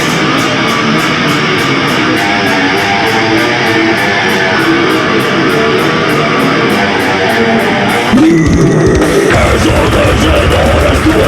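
Live nu metal band playing an instrumental passage: distorted electric guitars over steady cymbal hits about three a second. About eight seconds in, the full band comes in heavier and louder, with a stronger low end.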